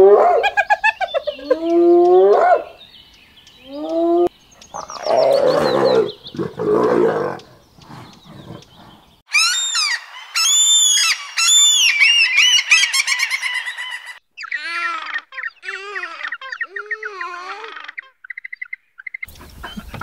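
A run of different wild animal calls cut one after another: spotted hyenas giving repeated rising whoops in the first few seconds, then rougher, noisier calls, then high-pitched repeated bird calls from about nine seconds in.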